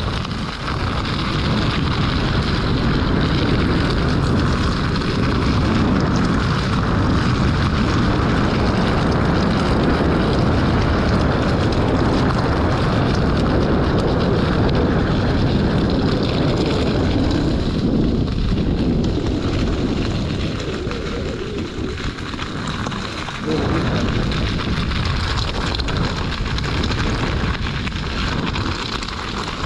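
Steady wind rush and low rumble on the microphone of a moving electric unicycle rider on a rough track, easing for a few seconds about two-thirds through, then building again.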